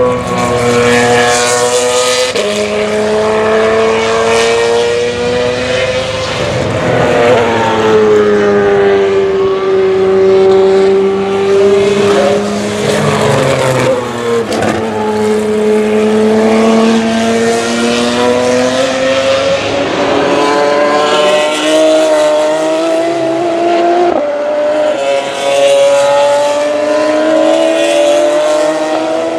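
GP3 single-seater race car's V6 engine running at racing speed, its pitch climbing and falling as it accelerates, brakes and shifts through the gears, with several sudden pitch drops at gear changes.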